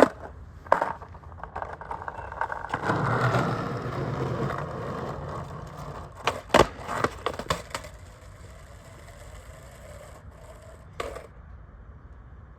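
Skateboard riding: wheels rolling, the trucks scraping along a curb for about three seconds, then loud clacks of the board's tail and wheels hitting the ground, with a last clack near the end.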